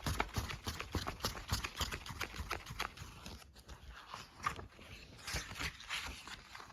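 A quick, irregular run of light taps and clicks, several a second, thinning out about halfway through.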